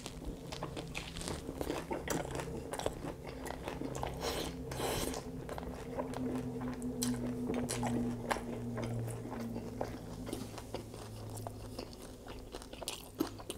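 Crispy deep-fried Vietnamese spring roll being bitten into and chewed close to the microphone: a steady run of crunches and small crackles.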